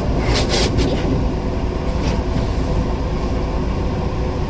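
Automatic car wash machinery running, heard from inside the car's cabin: a steady low rumble, with brief hissing bursts of water spray about half a second in and again around two seconds in.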